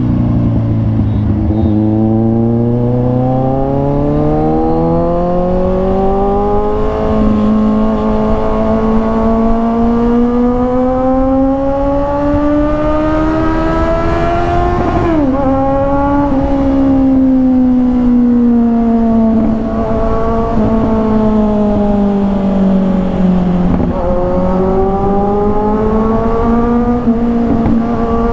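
Kawasaki Ninja 1000's inline-four engine through an SC Project aftermarket exhaust, revs climbing slowly for about fourteen seconds. The pitch then drops sharply with a gear change, sinks gradually as the bike eases off, and climbs again in the last few seconds.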